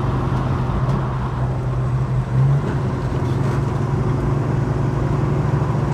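Holden HK sedan's engine running steadily while driving, heard from inside the cabin with road noise; the engine note briefly swells about two and a half seconds in.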